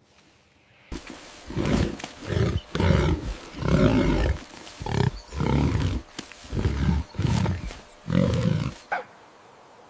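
An animal's loud, rough calls, about eight in a row with short gaps between them, starting about a second in.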